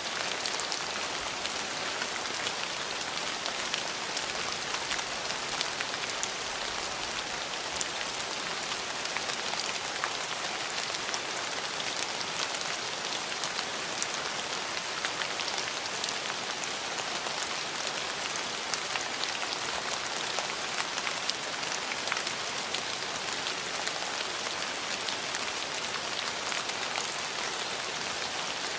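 Steady rain falling, a dense hiss with fine drop ticks hitting a surface.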